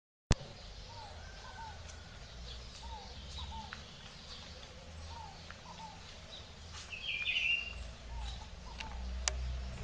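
Birds calling: a short curved note repeating about once a second, with a louder, higher call about seven seconds in, over a low steady rumble of wind.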